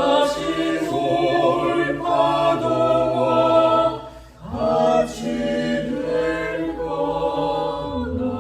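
Small mixed vocal ensemble singing held chords in close harmony, breaking off briefly about four seconds in and coming back in together.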